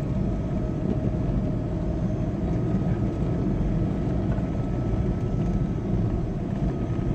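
Steady low engine and road rumble of a heavy road vehicle being driven, heard from inside the cab, with a faint steady whine over it.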